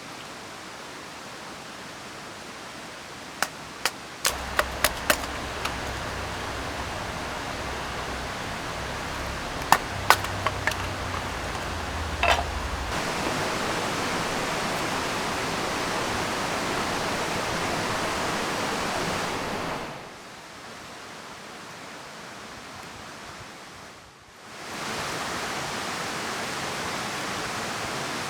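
Steady rushing of a river with rain, its level stepping up and down: louder about 13 seconds in, dropping around 20 seconds, swelling back about 24 seconds in. A few sharp clicks and knocks break through in the first half.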